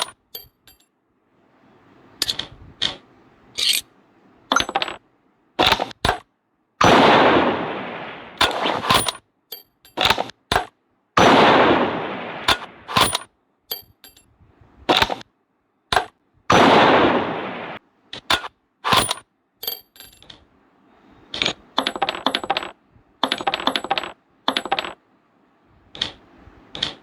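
Kar98k-style bolt-action rifle being worked by hand: a string of sharp clicks and clacks from the bolt and trigger, with three longer clattering bursts that fade over a second or so, about 7, 11 and 16 seconds in.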